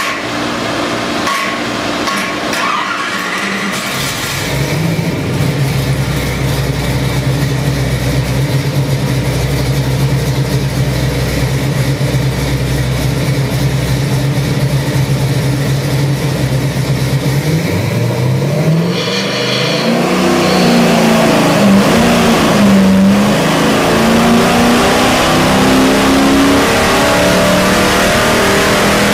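A 383 cubic-inch stroker small-block Chevy V8 running on an engine dyno. It rises to a steady speed about four seconds in and holds there, then climbs higher at about 17 seconds and runs on at that higher speed, wavering a little.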